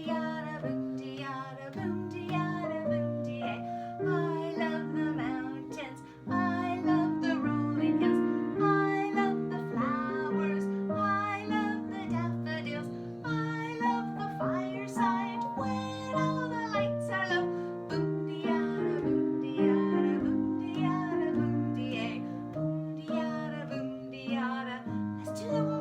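A children's song sung to a plucked guitar accompaniment, with a short break about six seconds in.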